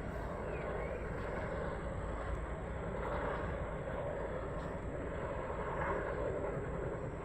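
Tandem-rotor helicopters running, a steady noise of rotors and engines.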